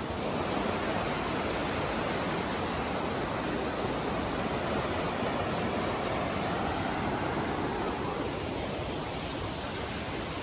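Steady rush of falling water from a small waterfall, an even hiss with no breaks.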